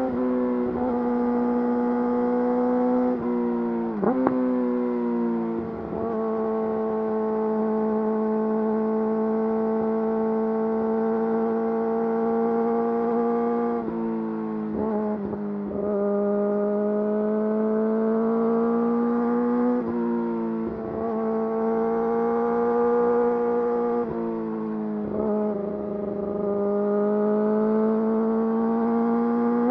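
Yamaha YZF-R6 inline-four engine through an Akrapovič full exhaust system, running steadily at high revs while riding. The note breaks off in short dips several times and climbs slowly in pitch near the end.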